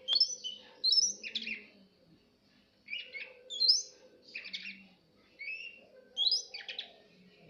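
Green leafbird (cucak ijo) singing in several short phrases of varied chirps and whistled, sweeping notes, with brief pauses between them.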